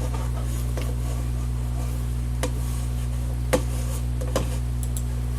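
Steady low electrical hum of room tone, with a few small, sharp clicks, the loudest about three and a half seconds in.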